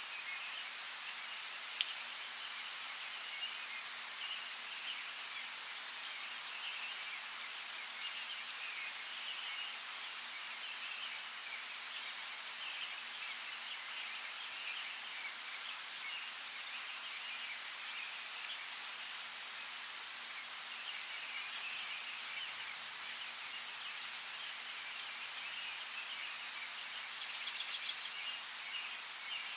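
Steady rain hiss with a few single drop ticks, under a continuous twitter of small birds chirping. Near the end a bird gives a quick run of loud, high chirps.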